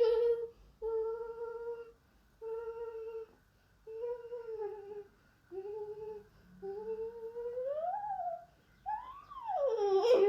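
A high voice humming: a series of held notes of about a second each with short breaks, then a slow rising swoop and a rising-then-falling swoop near the end.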